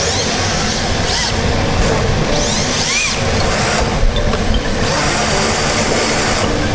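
Electric RC drift car running, its motor whining briefly up and down in pitch several times over a steady rush of noise.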